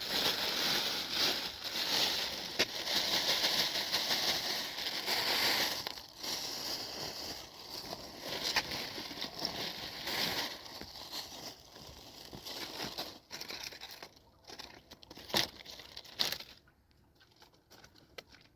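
Rustling and crinkling, with scattered sharp clicks, loudest over the first several seconds, then thinning to intermittent rustles and dying down about sixteen seconds in.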